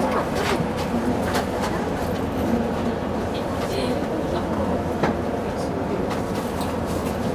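Tokyo Metro Tozai Line commuter train running, a steady rumble of wheels on rails with occasional short clicks.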